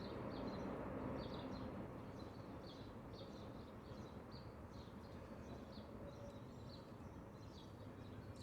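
Faint outdoor ambience: short, high chirps repeat about once or twice a second over a low, steady background noise.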